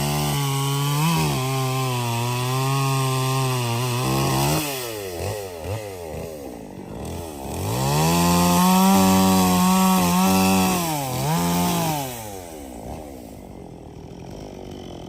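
Two-stroke chainsaw bucking a felled tree trunk into sections: held at high revs for about four seconds, dropping back, then revved higher again for a few seconds through a second cut before falling to a low idle near the end.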